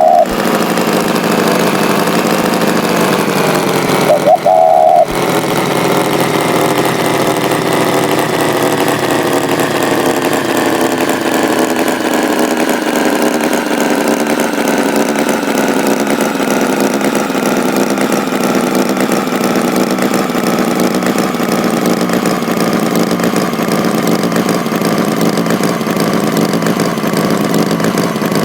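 Tractor engine running steadily, its pitch sinking slowly over the stretch. A short, higher-pitched tone cuts in about four seconds in.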